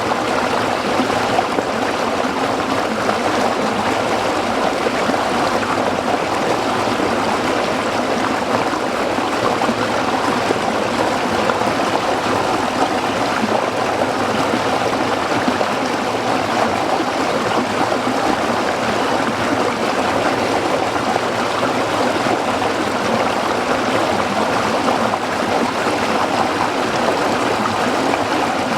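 Small stream flowing and splashing over rocks, a steady, even rush of water.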